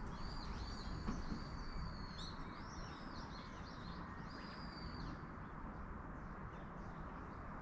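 Small songbirds chirping and whistling, busiest in the first five seconds and sparser after, over a steady low rushing background of outdoor ambience.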